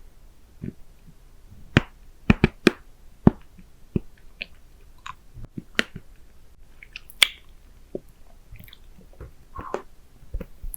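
Wet mouth sounds from licking and sucking a hard candy close to the microphone: irregular sharp clicks and smacks of tongue and lips, with a cluster of loud clicks about two seconds in and another sharp one about seven seconds in.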